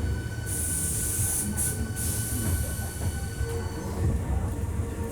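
Hankyu 1300 series train running at steady speed, heard from inside the car: low rumble of wheels on rail under a steady whine from its Toyo IGBT inverter drive. A second, lower tone joins about three and a half seconds in. A loud high hiss of wheel squeal comes and goes in the first two seconds.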